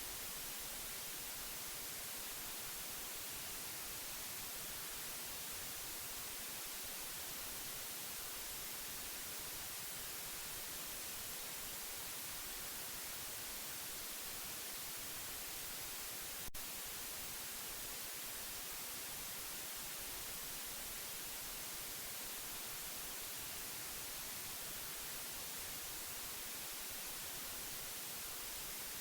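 Steady, unbroken hiss of white noise, even across the whole range from low to high. A single brief click comes about halfway through.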